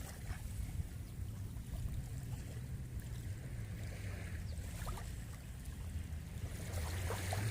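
Steady low rumble of wind on the microphone, with a faint wash of sea surf beneath it.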